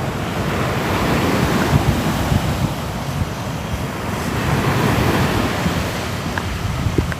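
Sea waves washing on a shore: a continuous rushing surf that swells and eases over a few seconds.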